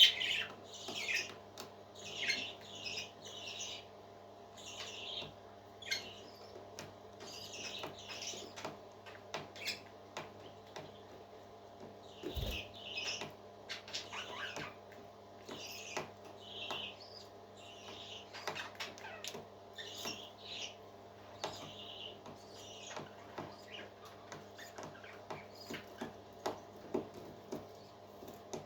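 Parrot chick peeping: short high-pitched cheeps repeated every half second to a second, with scattered faint clicks over a steady low hum.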